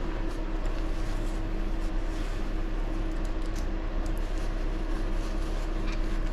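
Steady mechanical hum, like a room fan or air conditioner, with a few faint light clicks of small parts being handled.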